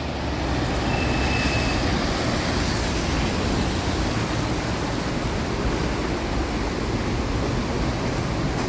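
Scania K230UB city bus running in service: a steady low diesel engine rumble mixed with road and body noise, with no sharp events.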